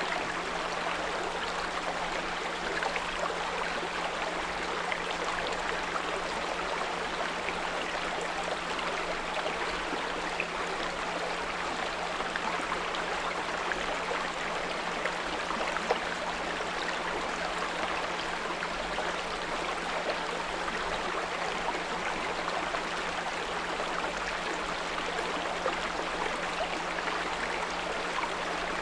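A small brook flowing and babbling steadily, with a steady low 174 Hz pure tone running underneath.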